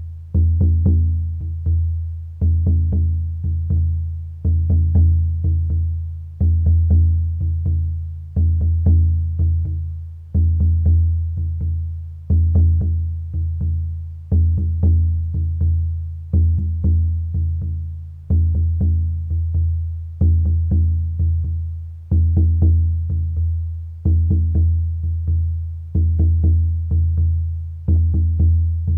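Music of a low-pitched drum struck in a slow, steady rhythm, about one beat every two seconds, each beat ringing and fading before the next.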